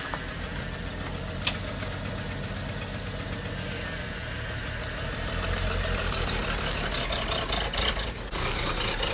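Ford pickup's carbureted straight-six engine running at low revs while the truck maneuvers, a little louder from about five seconds in.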